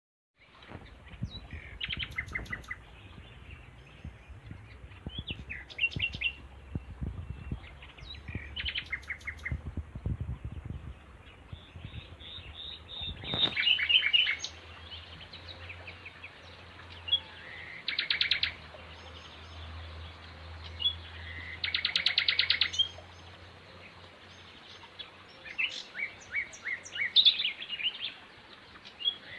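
Songbirds singing short, rapid phrases of quick notes, repeating every few seconds. A low rumble with knocks runs underneath through the first half, then stops.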